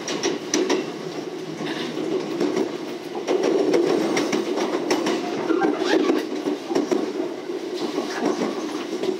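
Passenger train running, heard from inside the carriage: a steady rumble with irregular clacks and knocks as the wheels pass over rail joints.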